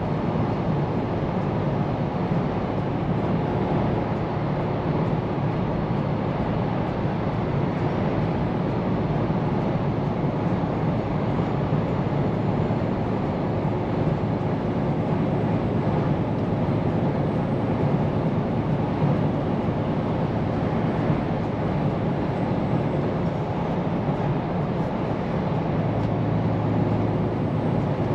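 Scania P410 truck on the move, its engine and tyres giving a steady drone and road noise.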